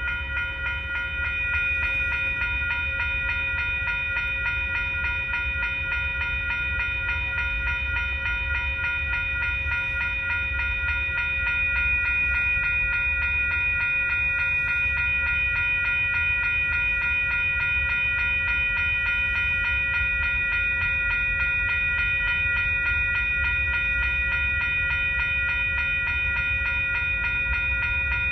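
Railroad crossing bells ringing without pause over the low rumble of a Union Pacific rock train's freight cars rolling past fast.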